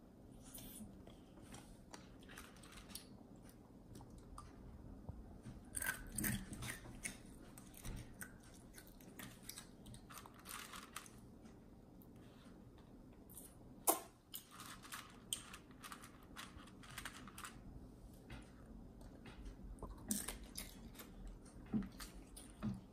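A child chewing and crunching dry cereal in short, irregular bouts, with one sharp tap about halfway through.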